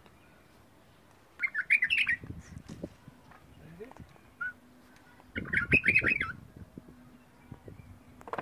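Small birds chirping in two bursts of rapid chatter, about a second and a half in and again about five seconds in, with low noise under each burst.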